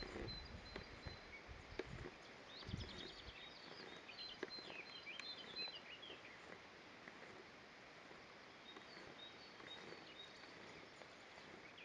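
Birds chirping faintly in short clusters of high notes, over low background noise with a few soft clicks in the first few seconds.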